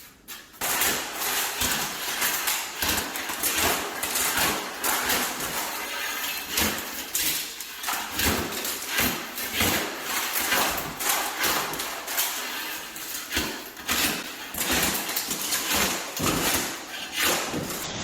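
Old floor tile being broken up and scraped off during demolition: a dense run of sharp, irregular knocks and scrapes, several a second.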